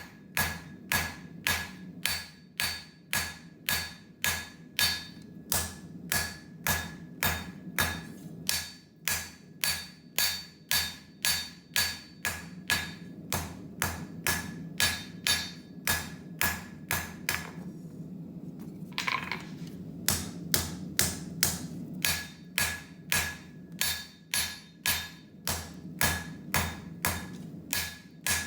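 Hammer blows on hot wootz steel over the anvil while a knife tang is forged, about two strikes a second with a light metallic ring, pausing for about two seconds past the middle. A steady low hum runs underneath.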